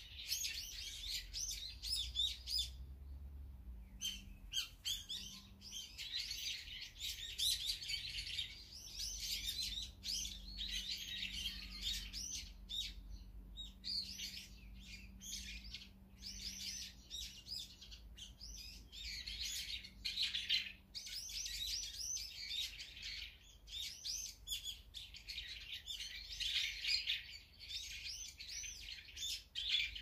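Several small birds chirping and calling over one another, almost without a break, with a short lull about three seconds in.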